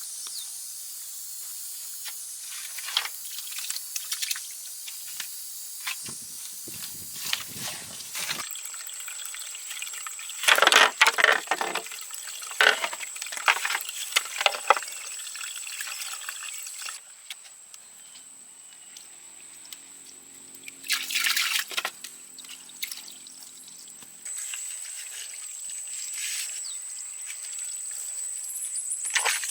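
Wet splashing and dripping with irregular short knocks and clicks, in clusters that come and go over a steady high hiss.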